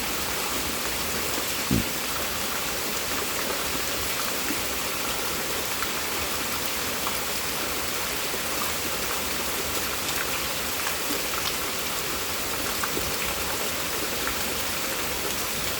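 Heavy rain falling steadily, a constant hiss with scattered small drip ticks. One brief low thump about two seconds in.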